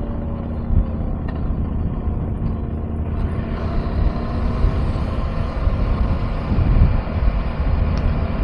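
KTM 390 Adventure's single-cylinder engine running steadily while riding, heard under uneven low wind rumble on a chest-mounted camera.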